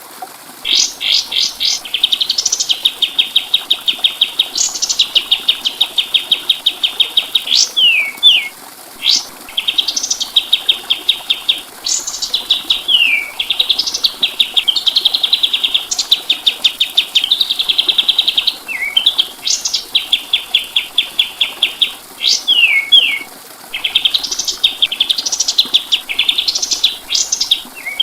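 A kapas tembak songbird singing in repeated phrases. Each phrase opens with a sharp upswept note and runs into a fast, even, rattling trill, with short gaps and quick down-slurred notes between phrases.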